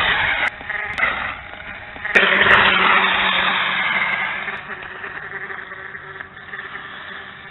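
X-Rider BX4003 radio-controlled dirt bike's electric motor and gears whining in bursts of throttle. A loud burst at the start cuts off, then come a couple of clicks. A second burst about two seconds in fades away into a fainter steady whine.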